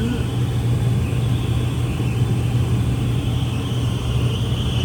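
Rooftop HVAC unit running: a steady low hum with a rumbling machine noise underneath and a faint high whine, even throughout.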